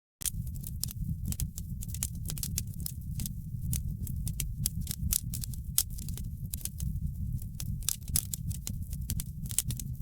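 Wood fire in a fireplace crackling: a low, steady rumble of the flames with frequent irregular sharp crackles and pops. The sound cuts in just after a brief dropout at the very start.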